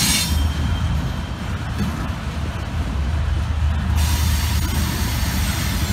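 Norfolk Southern freight train of steel-coil flatcars rolling past, a steady low rumble. A high hiss over it fades out just after the start and comes back about four seconds in.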